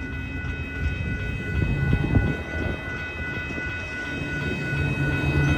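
Amtrak California Zephyr passenger train rolling past as it departs: a steady low rumble with a few wheel clacks on the rail joints about two seconds in.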